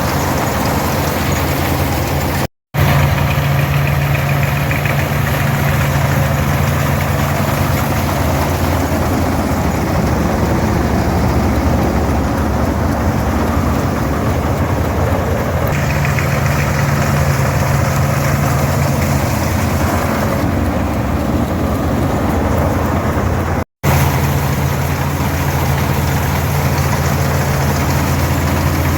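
Farmall 460 diesel tractor's 282 six-cylinder diesel engine running steadily, together with the International 82 pull-type combine it drives, during oat harvest. The sound drops out abruptly twice, once near the start and once about three-quarters of the way through.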